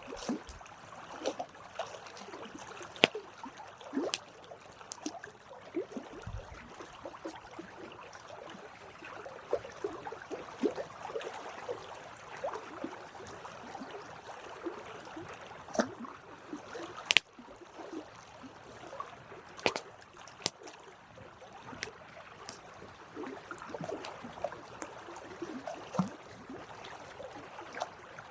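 Wood fire crackling, with irregular sharp pops over a soft hiss; one of the loudest pops comes about 17 seconds in.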